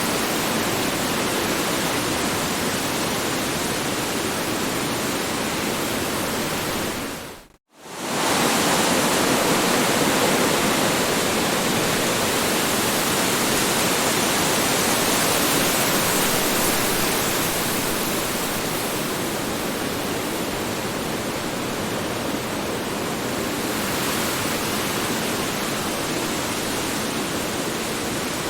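Strong wind blowing in a steady, full rush. About seven and a half seconds in it briefly fades to silence and comes straight back.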